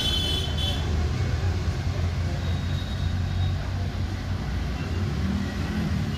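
Steady low rumble of road traffic, with a brief high-pitched tone in the first moment.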